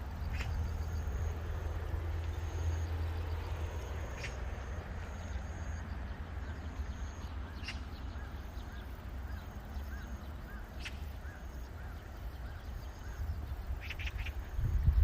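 Mallard ducks quacking among the repeated high chirps of small birds, with a row of short calls about twice a second in the second half, over a low steady rumble.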